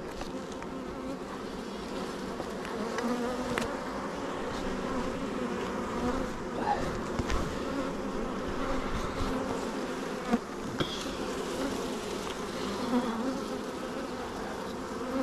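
Honeybees buzzing around an open hive: a dense, steady hum of many wingbeats, with a few short clicks over it.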